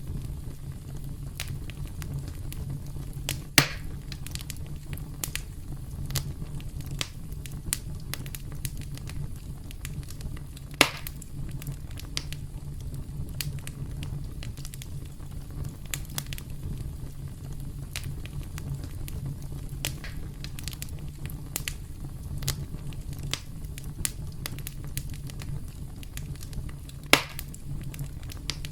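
Campfire crackling: a steady low rumble of burning wood with scattered sharp crackles, and three louder pops, one about three and a half seconds in, one near the middle and one near the end.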